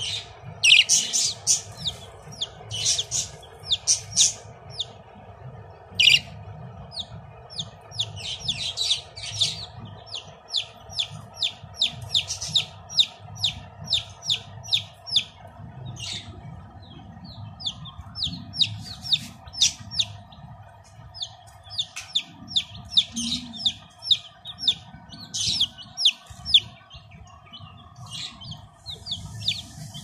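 Baby chicks and budgerigars chirping: a steady stream of short, high peeps and chirps, some much louder than others, over a faint steady hum.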